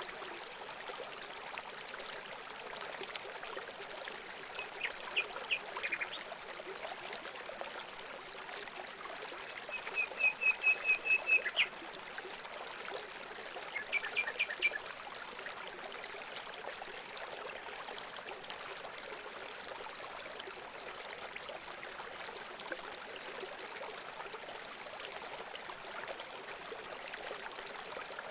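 Water trickling and running steadily, with a bird calling three times in short runs of quick repeated high notes; the middle run is the longest and loudest.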